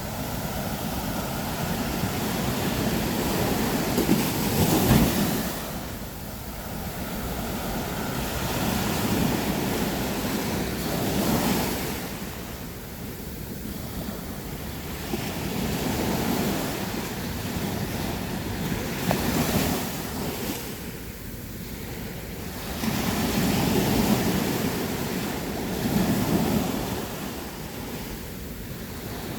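Sea waves breaking on the shore, the wash swelling and fading every few seconds as each wave comes in and draws back.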